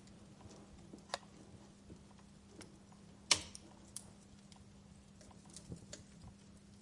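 Wood fire crackling quietly: scattered small ticks and pops, with one louder pop about three seconds in and smaller ones about a second in and near four seconds, over a faint steady hum.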